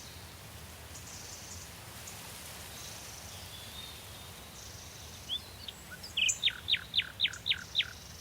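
Forest birdsong: faint distant bird calls over a low steady background rumble, then near the end a songbird sings a quick run of about seven sharply falling whistled notes.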